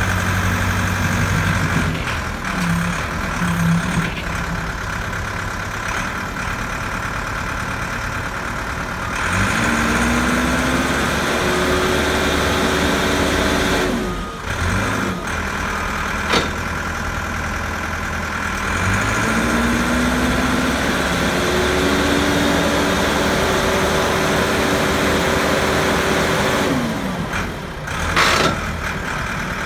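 JCB 3CX backhoe loader's diesel engine running, brought up to higher revs twice, each time held for several seconds before dropping back to idle.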